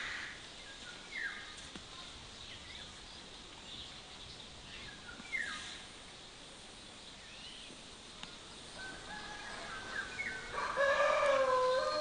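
A rooster crowing near the end, one long drawn-out call, after a few short falling bird chirps.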